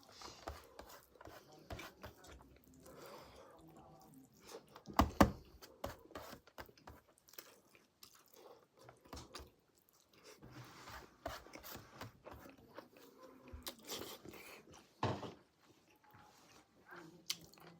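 Close-up mouth sounds of a person chewing and crunching pork, with wet clicks and smacks throughout and two louder crunching bites, about five seconds in and again near the three-quarter mark.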